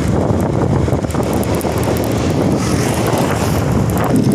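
Truck on the move, with steady engine and road noise and wind buffeting the microphone.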